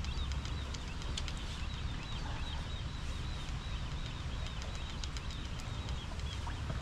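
Small birds chirping and twittering again and again, over a steady low rumble.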